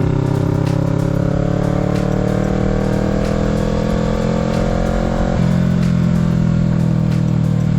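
Kawasaki Z650's parallel-twin engine pulling under acceleration, its pitch climbing slowly as the revs rise. About five and a half seconds in, the pitch drops in one step at an upshift, then the engine holds steady in the next gear.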